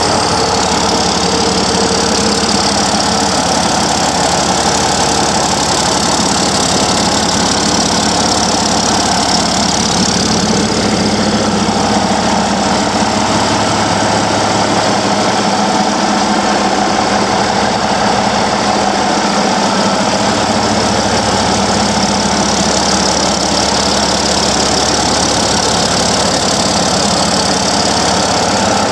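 Cummins ISX15 inline-six diesel engine idling steadily just after starting.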